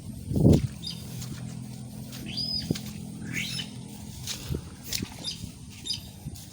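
Bird chirping in short high calls, about once a second, with a dull low thump about half a second in.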